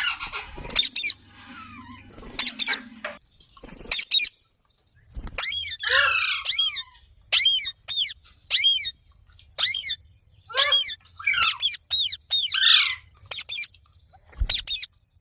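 Indian ringneck parrot (rose-ringed parakeet) calling: a run of short, high calls, each rising and falling in pitch, repeated in quick series with a brief pause partway through.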